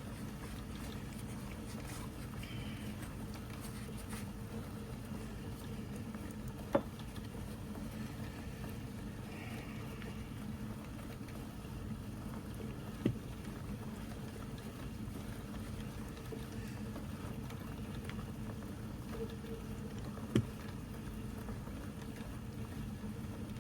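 Steady low hum of workshop room noise, with three brief sharp clicks spaced about seven seconds apart, typical of small metal tool parts being handled and set down while they are oiled.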